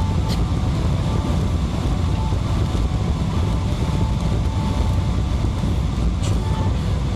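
Steady low roar of a Boeing 777-300ER airliner's cabin in flight, from engine and airflow noise.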